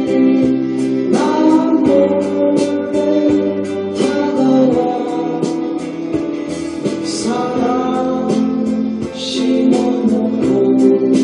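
Korean pop ballad playing: a voice singing long held notes over strummed acoustic guitar and a steady beat.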